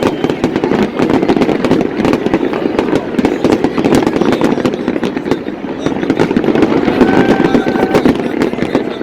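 Fireworks display: a dense, continuous run of bangs and crackling from many shells bursting in quick succession.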